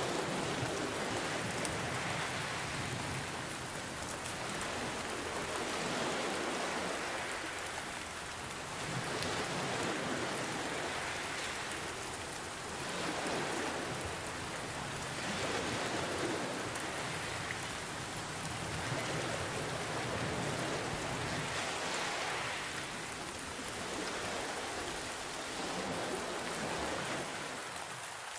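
Steady rain hiss mixed with ocean waves, swelling and easing about every three to four seconds.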